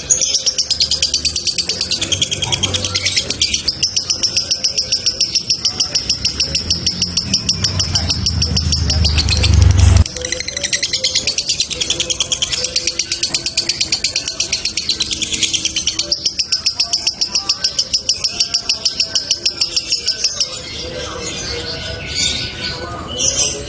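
Male lovebird singing a long 'ngekek' trill: a loud, high-pitched, rapidly pulsed chatter repeated several times a second, kept up for about twenty seconds with only tight pauses, the long-duration 'konslet' song. A low rumble swells under it and stops abruptly about ten seconds in, and the bird drops to softer chirping near the end.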